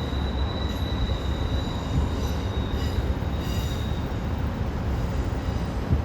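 Train rolling past with a steady low rumble and a thin, high-pitched squeal of steel wheels on the rails that fades out about four seconds in, with a few brief higher squeaks partway through.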